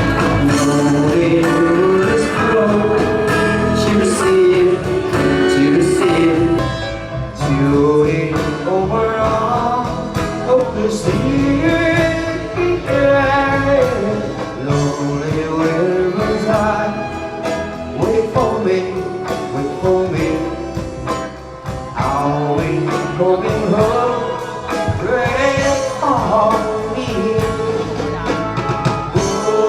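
A live band plays a pop song while a singer carries the melody over a steady drum beat.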